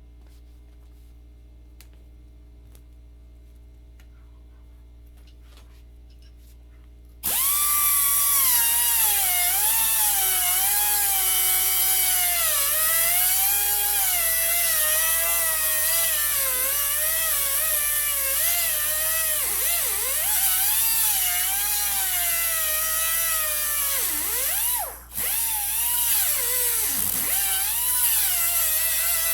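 Angle grinder cutting into the steel tank of an old electric water heater: a loud, high whine that wavers and sags in pitch as the disc bites under load, over a harsh metal-grinding hiss. It starts about seven seconds in, after a faint steady hum, and lets up for a moment near the end before cutting again.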